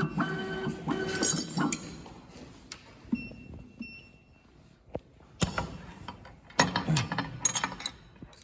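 Metal clicks and clinks from a semi-automatic USB cable soldering machine's mechanism as it is worked and adjusted, scattered, with a quick run of clicks in the second half.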